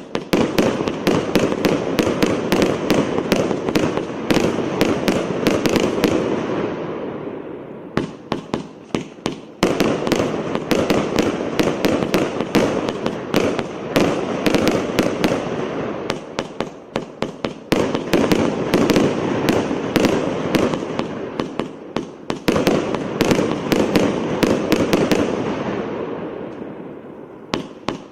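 A 600-shot, 1-inch firework cake firing: rapid launch pops over a continuous din of bursting shells. It swells and dies away in waves every several seconds, with a brief lull about a quarter of the way in.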